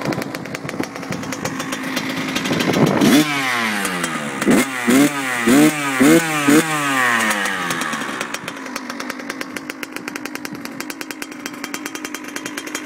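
2008 Kawasaki KX100's single-cylinder two-stroke engine, fitted with a stock exhaust pipe, running on choke and not yet warmed up after a cold start. It idles, is revved up about three seconds in and blipped sharply several times, then drops back to idle.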